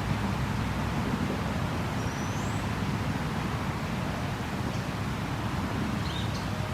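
Steady outdoor creek ambience: an even rushing hiss over a low rumble, with a few faint high bird chirps, one rising about two seconds in and a couple more near the end.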